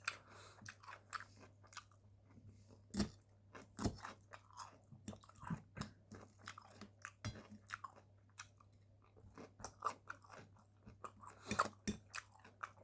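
Close-miked chewing of a meal, with irregular crunching and crackling bites, a few louder crunches about three seconds, four seconds and near the end.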